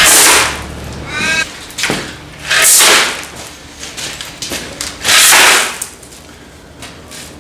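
Three shovelfuls of aggregate (small rocks) tipped into a wheelbarrow, one about every two and a half seconds.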